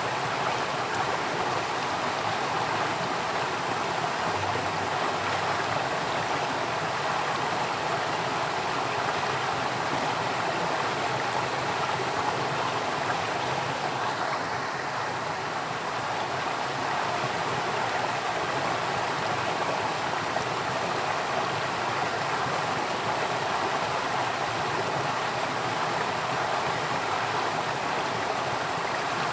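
Flowing water, a steady continuous rush without breaks or changes.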